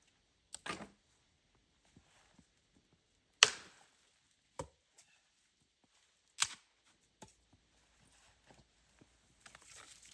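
Sharp knocks or cracks, five of them spaced one to three seconds apart, the loudest about three and a half seconds in, with small ticks between them and soft rustling near the end.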